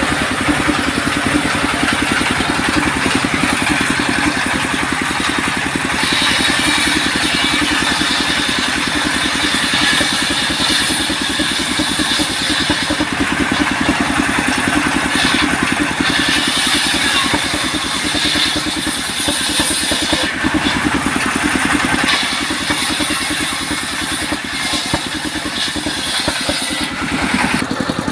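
Engine-driven sawmill machinery running steadily with a rapid engine pulse, its sound changing every several seconds.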